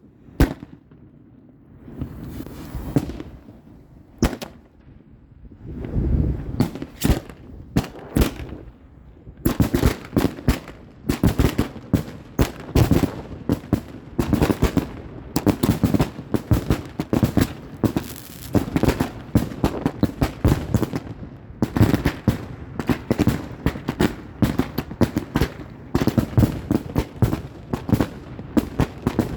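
Big-bore fireworks going off: a few separate bangs with gaps between them, then from about nine seconds in a fast, unbroken string of bangs, several a second, like a multi-shot cake firing.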